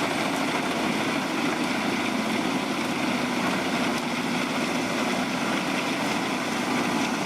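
Wood chipper running steadily: an even engine-and-machine drone with a constant low hum.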